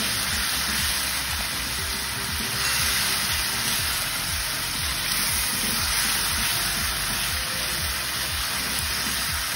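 Ground shallot, garlic and chilli paste sizzling in hot oil in a steel wok with a steady hiss while it is stirred with a silicone spatula.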